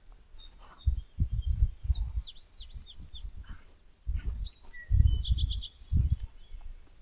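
Songbirds chirping in quick high notes and a short trill, over a series of dull low thumps and rumbles close to the microphone.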